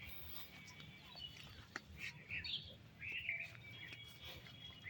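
Faint outdoor bird calls: a few short, high chirps in the middle stretch.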